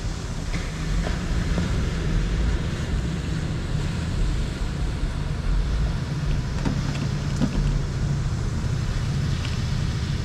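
Wind buffeting the microphone: a steady low rumble, with a few faint clicks of handling.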